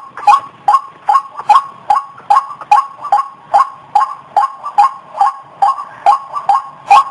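White-breasted waterhen (ruak-ruak) calling, a fast, evenly repeated two-note call at about two and a half notes a second.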